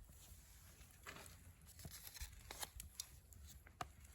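Near silence, with a few faint, scattered clicks and crackles.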